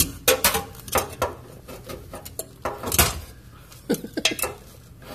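Irregular metallic clanks and knocks of tools and parts being handled while working under a car, with a loud knock about three seconds in.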